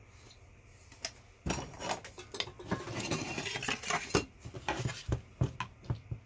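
Metal parts and hand tools clattering and scraping against each other as the massager is pried apart, starting about a second and a half in, with several sharp clinks near the end.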